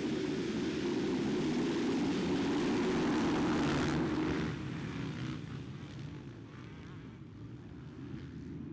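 Motocross bike engines running hard at high revs, then the level drops off suddenly about four and a half seconds in and a quieter engine sound fades away.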